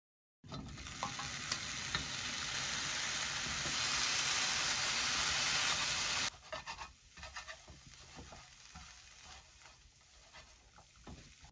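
Spent bonito flakes, left over from making mentsuyu and still wet with soy sauce and mirin, sizzling loudly in a frying pan while they are stirred with wooden chopsticks. About six seconds in, the sizzle drops away abruptly, leaving quieter stirring with scrapes and taps of the chopsticks against the pan.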